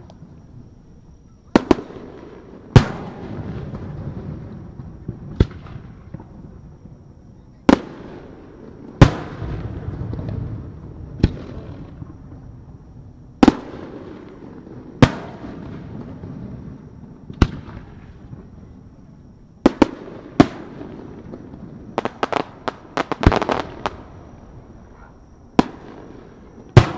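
Aerial firework shells bursting one after another, each a sharp bang followed by a rumbling echo, every one to three seconds. Around two-thirds of the way through comes a quick flurry of smaller crackling reports.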